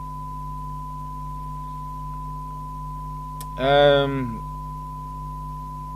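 Steady 1 kHz test tone from a signal generator, received and played through the CB radio's loudspeaker, over a low hum. A short burst of a man's voice about two-thirds of the way through.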